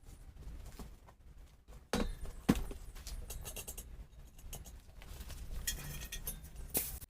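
Hand work on the motorcycle's front wheel: two sharp knocks about two seconds in, followed by irregular scraping and clinking of metal tools and parts.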